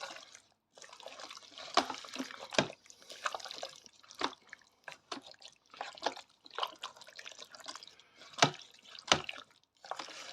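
A wooden spoon stirring a thick curry in the inner pot of an electric pressure cooker: an irregular run of wet sloshing and plopping, with a few sharper plops.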